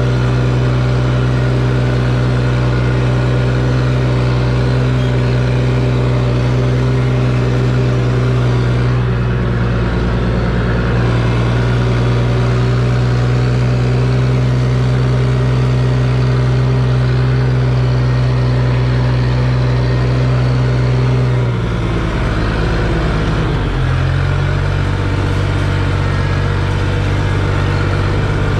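Tractor engine running loud and steady, then dropping in pitch about 21 seconds in and settling to a new steady speed a couple of seconds later.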